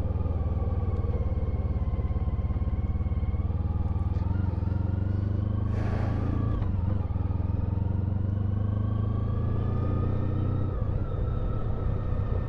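Honda ST1300 Pan-European's V4 engine running at a steady cruise, heard from on the bike, with a slight rise in pitch later on. A short hiss about six seconds in.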